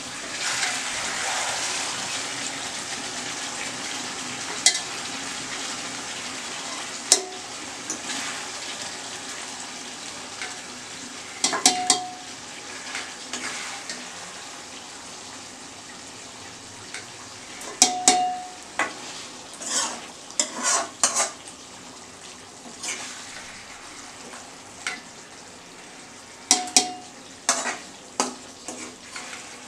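Mutton and potatoes sizzling in a kadai with a steady hiss that slowly fades. A spoon knocks and scrapes against the metal pans several times, and a few of the knocks ring briefly.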